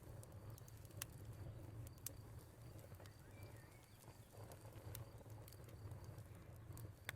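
Faint wood fire crackling, with a few sharp pops and a low rumble beneath. A cricket chirps in a steady high pulse, and a bird gives one short call about midway.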